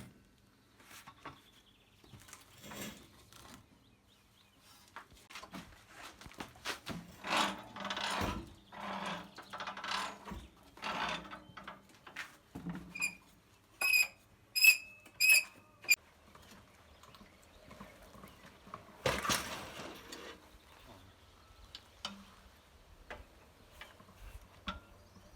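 Clattering and knocking of metal parts and tools being handled, with a quick run of about five sharp, ringing metal strikes a little past the middle.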